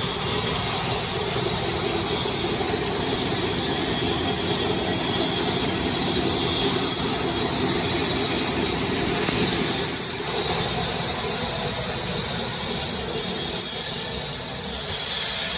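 Automatic neck paper roll rewinding machine running steadily, making a continuous mechanical noise that eases slightly about two-thirds of the way through.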